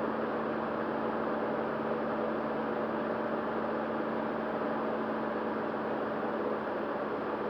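Steady drone of a Beechcraft Sundowner's four-cylinder Lycoming engine and propeller in cruise, heard inside the cockpit, with a constant low hum and even level throughout.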